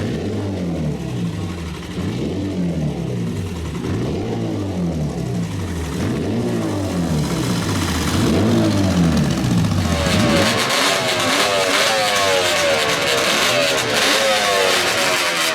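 Motorcycle engines. First a low-pitched engine revs up and down over and over. About ten seconds in, it gives way to a higher-pitched engine accelerating, its pitch climbing again and again.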